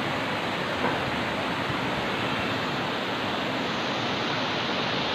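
Cooling and fogging system running, a steady, even rushing hiss.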